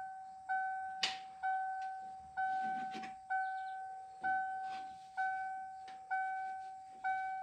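The truck's electronic warning chime dinging about once a second, each ding fading away, as it does with the door open and the electrics live. Now and then there is a soft click or rustle of hands and metal inside the door.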